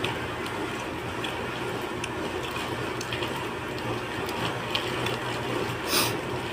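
Eating sounds: scattered small clicks and mouth noises, as of chewing and a spoon against a bowl, over a steady low background hum, with a short louder hiss-like slurp or rustle about six seconds in.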